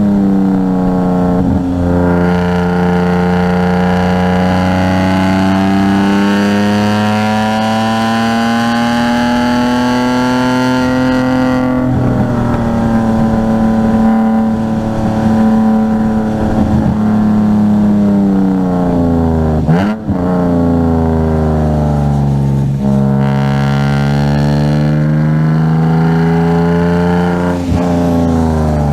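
Car engine running hard at track speed, its pitch slowly rising and falling as it accelerates and eases off. A gear change makes a brief sharp break in the engine note about two-thirds of the way through, with another near the end.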